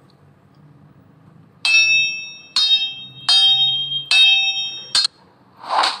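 Sword-fight sound effect: five metallic clangs of blades striking, each ringing briefly, a little under a second apart. Near the end, a short whoosh.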